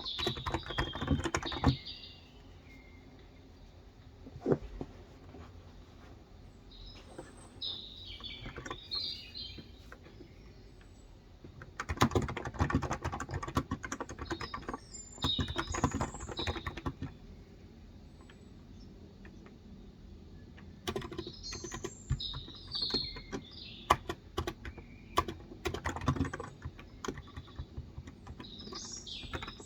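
Typing on a Cox Endeavor electrostatic-capacitive keyboard with light 35 g keys, in spells of quick keystrokes broken by pauses. Birds chirp in short bursts several times over the typing.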